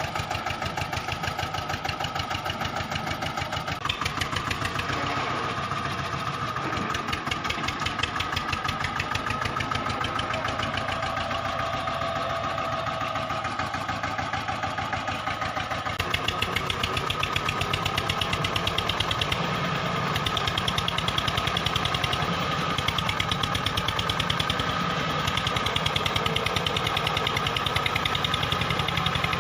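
Tractor engine sound running steadily with a rapid chugging beat, a little louder from about halfway through.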